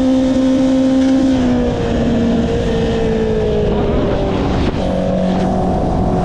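Honda CB650R's inline-four engine running at steady revs, then the revs drop and the note slides lower for a few seconds before settling on a new steady pitch near the end, with wind rush over it.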